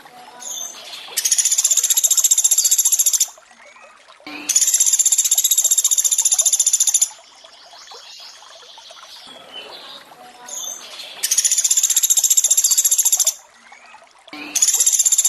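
Pelatuk beras bird giving its rapid, high, buzzing trill ('tembakan') four times, each trill lasting about two seconds, with the last one still going at the end. Between the trills, running water trickles steadily.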